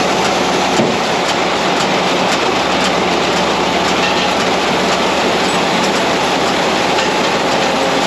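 Tractor and New Holland Roll-Belt 450 round baler running while baling hay: a steady machinery din with faint, regular clicking, about two or three clicks a second.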